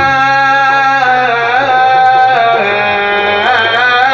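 A man singing Arabic religious madih in a long melismatic run without words. He holds a note, then slides and ornaments between pitches several times.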